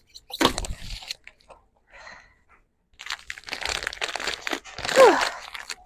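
Vinyl car wrap film being peeled off a fender by hand, crackling and crinkling as it pulls away from the paint. There is a short burst early, then a longer stretch of peeling with a short falling squeal about five seconds in.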